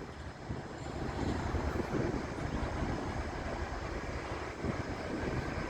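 Diesel-electric freight locomotive running light through the yard, its engine making a steady drone.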